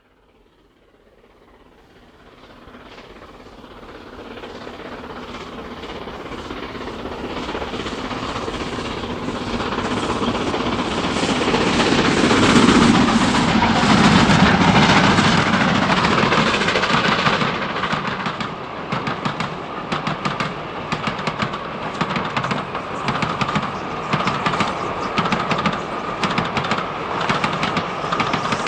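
Steam train approaching, growing steadily louder over about twelve seconds, then running close by with a rapid clatter of wheels over the rail joints and a steady whine.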